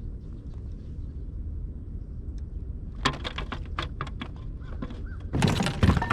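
Rapid clattering of sharp clicks and knocks in two flurries, a quicker, lighter run about halfway through and a louder, denser one near the end, over a steady low rumble.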